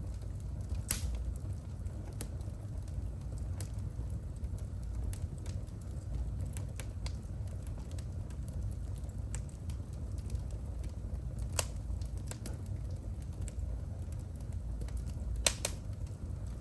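Wood fire burning in a fireplace, with a steady low rumble and scattered sharp crackles and pops. The loudest pops come about a second in, once near the middle, and again near the end.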